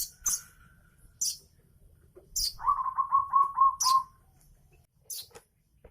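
Young weaver bird chicks chirping: short, sharp high chirps, six of them spread out, with a quick run of about six lower notes in the middle.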